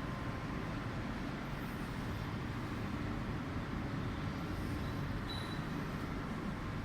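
Steady low mechanical rumble of a tunnel car wash running.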